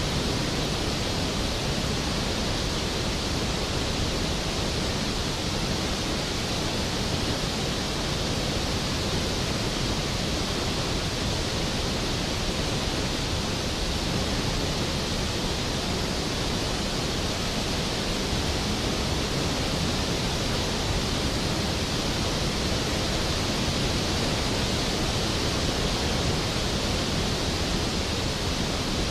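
Skógafoss waterfall: a steady, unbroken rush of falling water, a deep full roar spread from low rumble to hiss.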